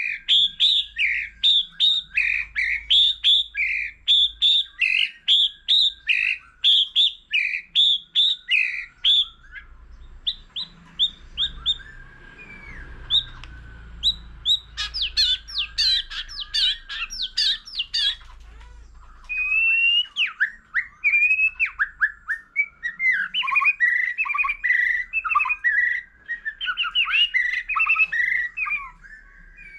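White-rumped shama singing: a run of loud, repeated whistled notes about two a second, then after a short lull, dense bursts of varied whistles and chattering phrases.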